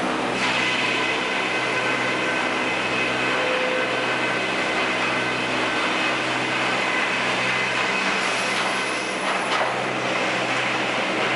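Sawmill machinery running steadily: a low motor hum with a high-pitched whine over it, and a brief falling squeal near the end.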